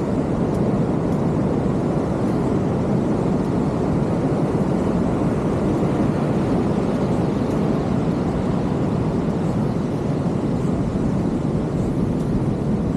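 Steady roar of heavy ocean surf breaking on the beach, a continuous low rumble with no breaks.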